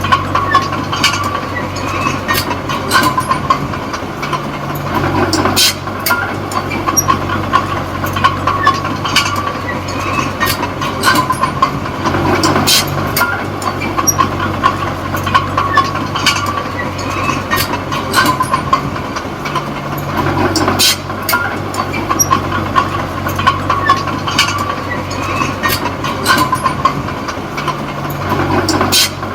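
Komatsu D20P small bulldozer working: its diesel engine running steadily under the rattle and clank of the steel tracks. A louder clank and surge comes about every seven to eight seconds.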